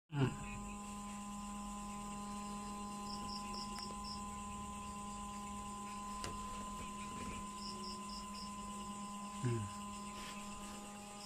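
Cricket chirping in two short trains of quick, evenly spaced high pulses over a steady electrical hum. A brief low sound comes right at the start and again about nine and a half seconds in.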